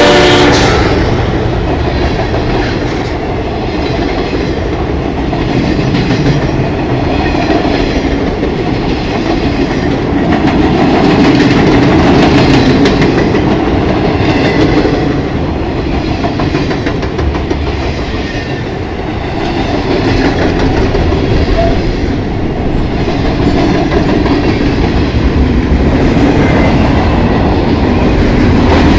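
A freight train of loaded flatcars rolling past close by: a steady rumble with wheels clattering on the rails, swelling and easing in loudness as the cars go by. A locomotive horn note cuts off right at the start.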